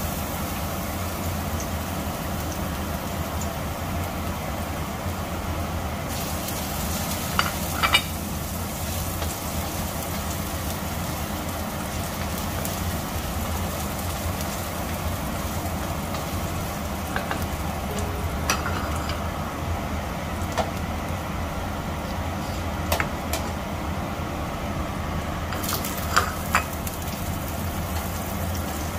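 Minced garlic sizzling in oil in a stainless steel wok, stirred with a wooden spatula that now and then knocks against the wok, over a steady low hum.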